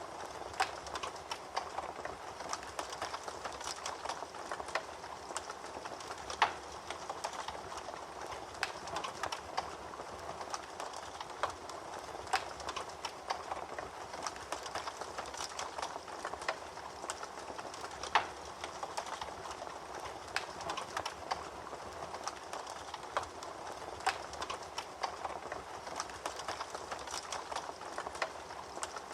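Fire crackling in a fireplace: a steady hiss with frequent small irregular pops and a few louder snaps, the sharpest about six seconds in and again about eighteen seconds in.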